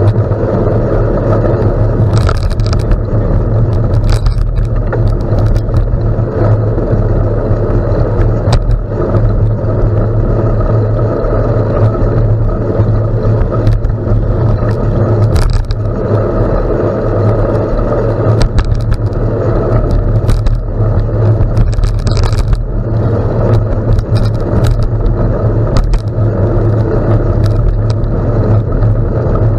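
Bicycle rolling on a gravel road: a steady, loud rumble of tyres and wind on the microphone, with scattered clicks and rattles throughout.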